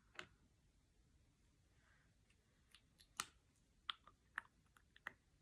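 Faint scattered clicks and taps of small makeup containers being handled, about seven in all, the loudest a little after three seconds in.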